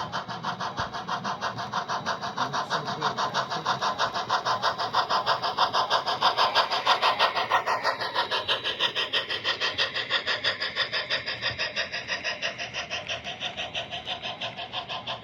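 An On30 model steam locomotive's onboard sound system chuffing fast and evenly, about six chuffs a second. It grows louder towards the middle and then fades somewhat as the locomotive passes.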